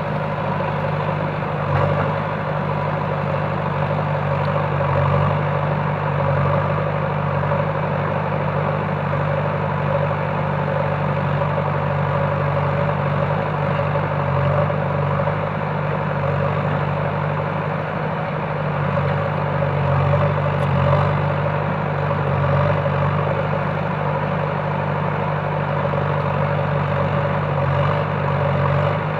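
Heavy diesel engine running steadily at a constant, low speed, with a deep hum and no revving.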